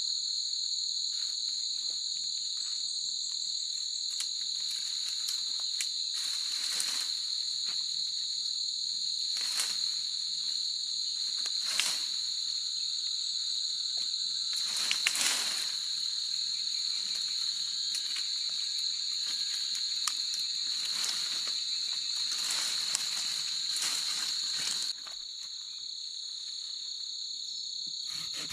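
Evening insect chorus: a steady, high-pitched chirring from many insects, with scattered short rustles and clicks. It drops in level suddenly near the end.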